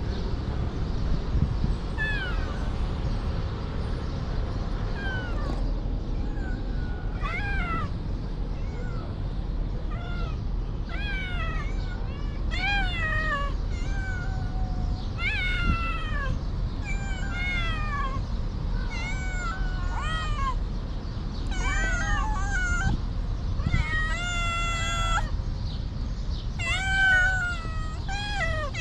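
Stray cats meowing over and over: a few meows at first, then about one a second from roughly six seconds in, with one longer drawn-out meow a little past two-thirds of the way through, over a steady low background rumble.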